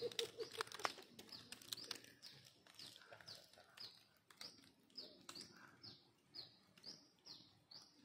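A bird calling in an even series of short, high, downward-sliding notes, one roughly every half second, starting about two seconds in. Clicks and a low pulsing tone sound in the first second.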